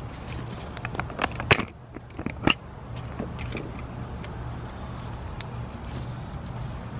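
Alternator pulley, with the serpentine belt removed, turned by hand: a few sharp clicks and knocks, then a steady, rough, grindy noise from its bad bearings.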